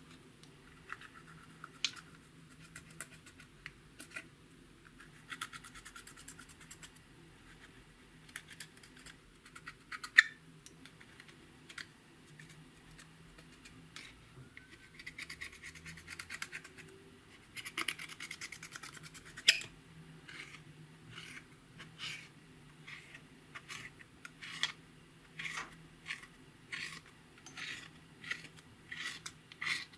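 Clear slime being mixed with makeup and glitter, giving sticky crackles, clicks and pops. In the last third these settle into a regular squish about twice a second.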